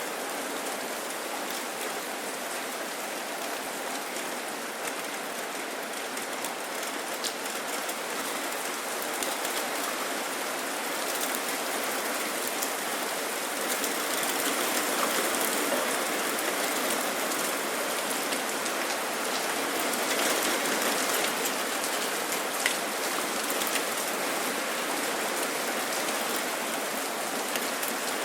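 Steady rain falling, a dense even hiss of drops with scattered sharper drips. It grows a little louder about halfway through.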